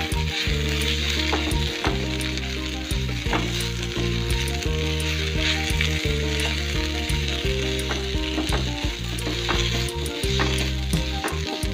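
Taro stems and grated coconut masala sizzling in a frying pan while being stirred and turned with a wooden spatula, which scrapes and taps against the pan many times. Background music with held notes plays underneath.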